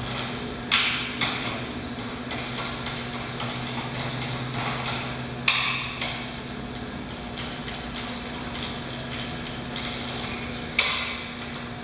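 Hand tools and steel engine parts clanking and ticking as the rocker arms and cylinder heads are unbolted from a Scania DC12 diesel engine. There are four sharp metallic clanks, two about a second in, one midway and one near the end, with small ticks between them, over a steady low hum.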